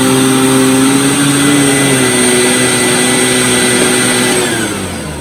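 Hoover WindTunnel Supreme upright vacuum running, its motor whine and aggressive brush roll over a dense rush of airflow, then winding down near the end as the tones fall and fade.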